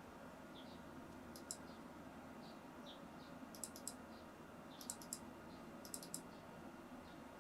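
Computer mouse buttons clicking, mostly in quick double clicks, in four short groups over a faint steady hum.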